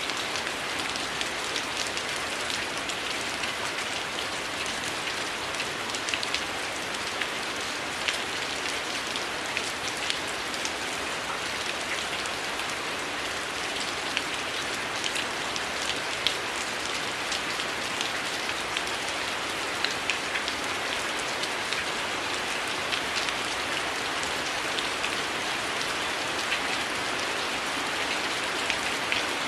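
Heavy rain falling steadily, with frequent small sharp crackles from a burning wood fire scattered over it.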